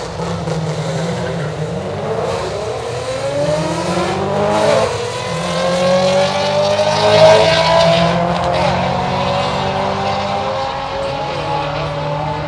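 Drag car accelerating hard down the strip, its engine pitch climbing steadily for several seconds and loudest about seven seconds in, over a steady low engine drone.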